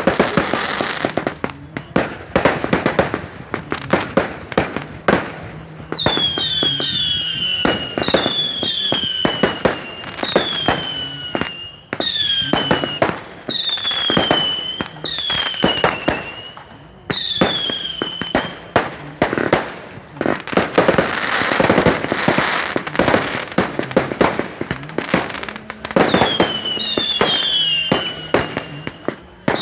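Fireworks going off in a fast string of bangs and crackles, with a run of repeated falling whistles from about six seconds in and again near the end.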